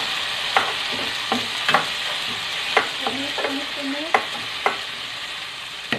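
Chopped garlic and sliced red chillies sizzling in oil in a nonstick frying pan, with a spatula scraping and knocking against the pan about once a second as they are stir-fried.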